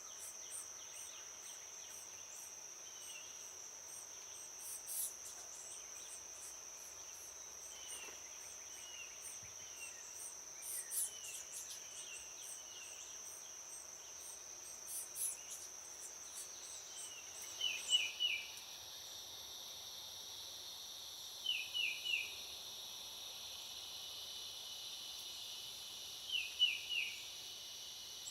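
A steady high-pitched insect chorus of crickets or katydids, with a bird's short falling chirps; in the second half the chirps come in quick runs of three every four seconds or so.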